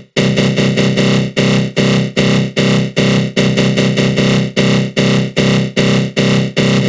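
Synthesized 'attack growl' sound effect: a harsh, loud synth buzz from the GMS synth through a flanger. It pulses in short surges about two to three times a second.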